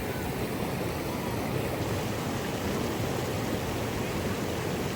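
Steady rush of flowing water from a natural swimming hole, an even noise with no breaks.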